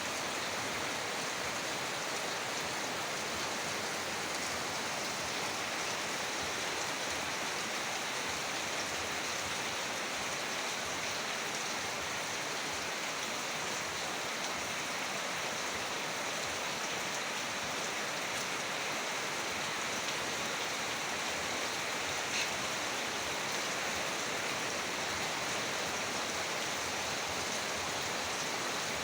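Heavy rain falling steadily, an even unbroken rush.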